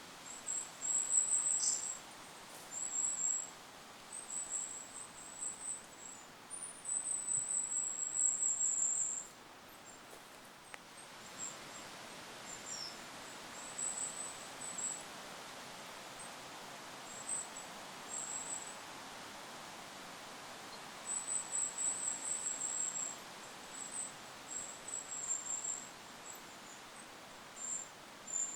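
Goldcrest singing: very high, thin runs of notes in repeated phrases up to about two seconds long, with a short lull partway through, over a steady hiss of wind.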